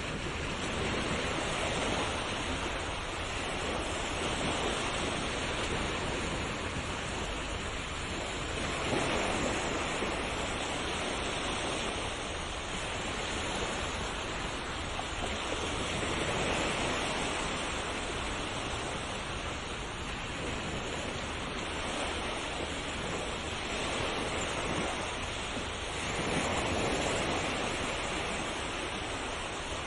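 Ocean surf: waves breaking and washing in continuously, the rush swelling and easing every several seconds.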